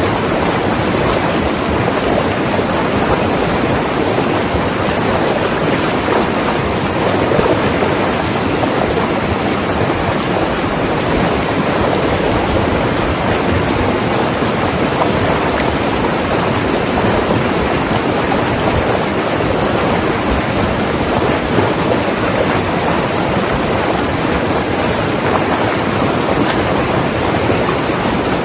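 Mountain river flowing and tumbling over rocks: a steady, unbroken rush of water.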